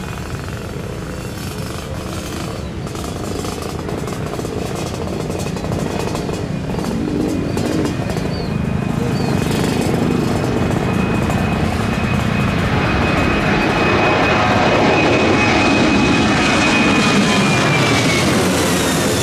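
Jet airliner engines running with a steady high whine over a broad rush, growing louder as the aircraft comes closer. The whine drops in pitch near the end.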